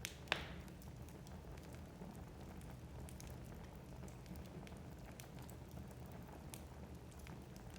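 Firewood burning in a fireplace: a steady low rumble with frequent small crackles, and one sharper pop just after the start.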